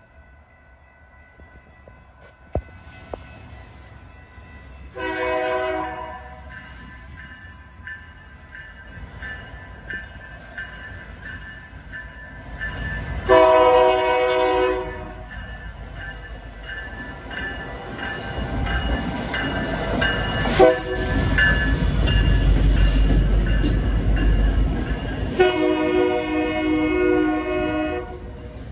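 Diesel freight locomotive approaching and passing, sounding its multi-chime air horn three times: a short blast about five seconds in, a longer one near the middle and another long one near the end. A low engine and wheel rumble builds in between as the locomotive draws level.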